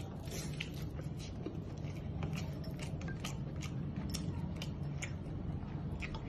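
Close-up eating sounds: irregular crisp clicks and crackles of biting and chewing fried chicken, over a steady low hum.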